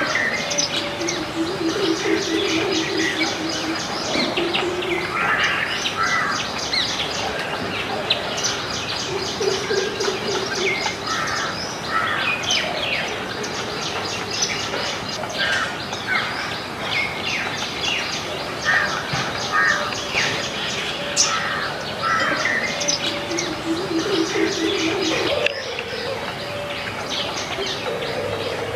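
Several garden birds chirping and calling together: short chirps and quick high trills, with a lower, pulsing call a few times.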